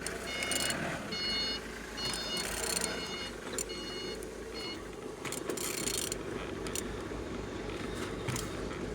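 Removed car engine being turned over by hand: mechanical scraping and clicking as the crankshaft is rotated, with short high-pitched tones repeating irregularly in the first half. The engine turns freely.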